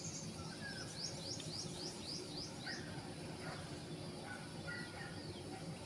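A bird calling: a quick series of about seven high chirps, roughly three a second, then a few scattered shorter, lower notes, over faint outdoor background noise.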